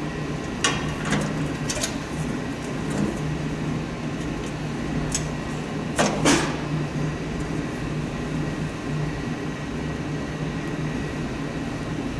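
Steady low hum with a few scattered clicks and knocks of tools and metal parts during a snowblower teardown; the loudest knock comes about six seconds in.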